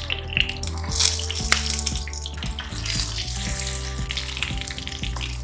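Stuffed capsicums sizzling in hot oil in a kadai as they brown, a steady frying hiss, with background music underneath.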